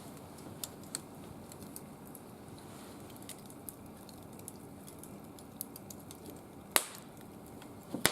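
Wood fire crackling, with scattered small ticks and two loud sharp pops near the end.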